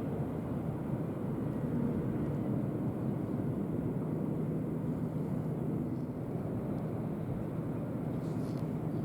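Steady low engine rumble of a passing ship, with a faint even hum held under it.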